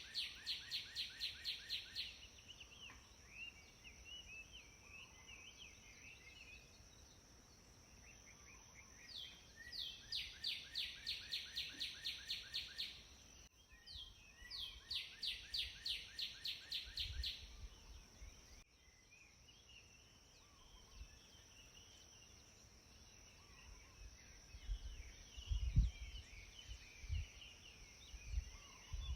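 Outdoor birdsong: one bird sings a fast run of repeated high notes in three bouts of two to four seconds each, with softer chirps from other birds between. A steady high insect drone runs underneath, and a few low thuds come near the end.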